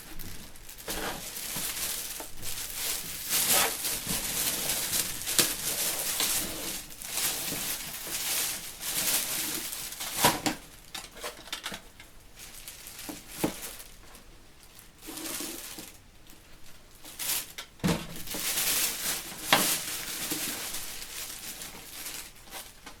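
Packaging crinkling and rustling, with many sharp clicks and light clatter throughout.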